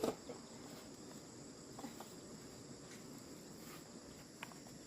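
Faint steady chirring of insects, likely crickets, with a few soft clicks.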